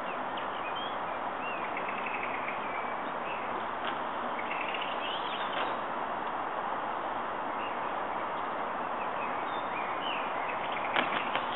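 Birds chirping now and then over a steady outdoor background rush. A few sharp taps near the end.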